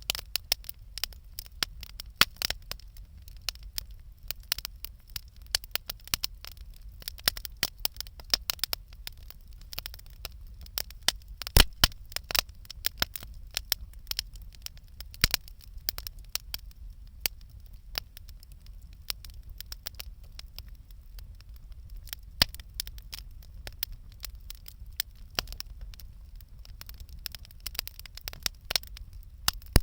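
Wood campfire crackling, with irregular sharp pops all through and a steady low rumble underneath; the loudest pop comes about twelve seconds in.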